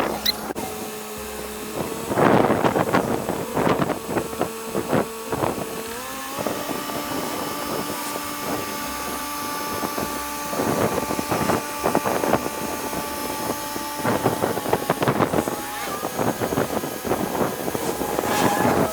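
A vehicle engine running with a steady hum that steps up in pitch about six seconds in, with repeated bursts of rattling and wind noise on the microphone.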